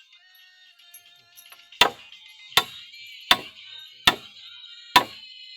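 Hand tool striking at a steady pace: five sharp blows about three-quarters of a second apart, starting nearly two seconds in.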